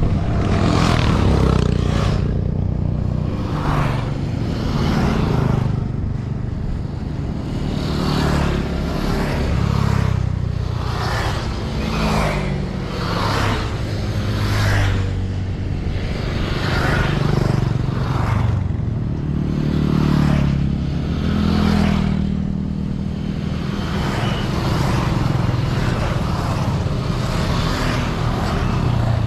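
A string of motorcycles passing one after another, each engine swelling and falling away as it goes by, about one every one to two seconds.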